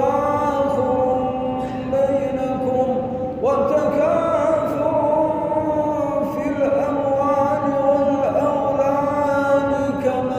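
Quran recitation: a man's voice chanting in long, drawn-out melodic phrases. The notes are held steadily, with a few slides in pitch.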